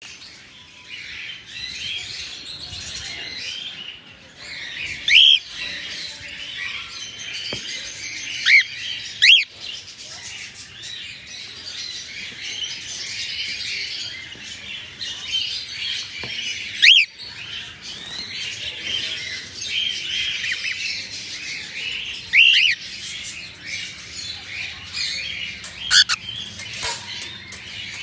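A group of albino cockatiels chattering continuously, with six loud, short squawking calls spread through it, two of them close together about nine seconds in.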